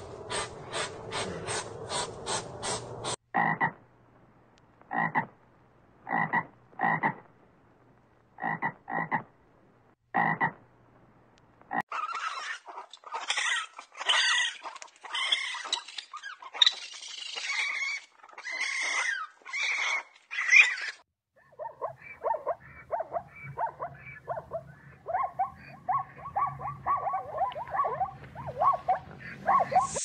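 A run of different animal sounds one after another: first a hedgehog making quick regular clicks, about three a second; then a few short separate calls about a second apart; then a raccoon's louder calls, one after another for about nine seconds; and near the end a fast chattering trill.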